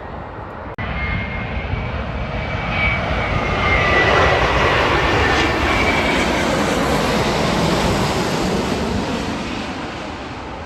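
Jet airliner's engines passing close by: a rushing engine noise with a high whine that builds, peaks around the middle, then slowly fades.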